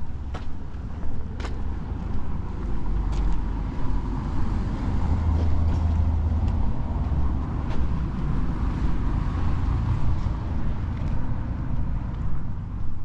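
A car driving past on the street: engine and tyre rumble swells over several seconds in the middle and then eases off.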